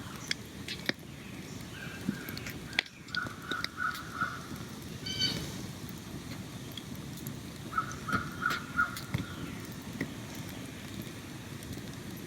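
A bird gives two quick series of short repeated calls, four or five notes each, a few seconds apart, with a single call between them. Behind it runs a steady hiss of outdoor ambience, with scattered small clicks.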